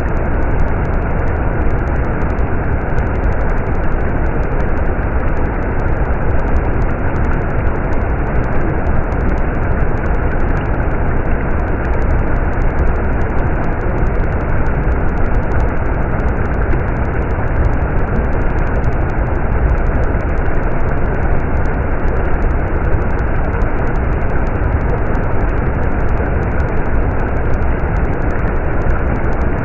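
Stream water flowing continuously, a steady rushing noise with a deep rumble and no pauses.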